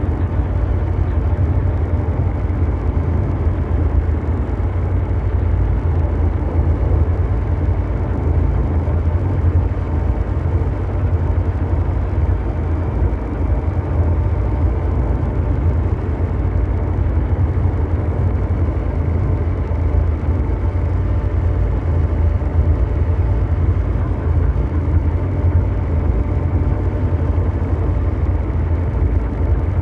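Ambient sound-design drone of a machine-like engine: a continuous deep rumble with a brown-noise hiss and faint steady hum tones above it. It holds even, with no change.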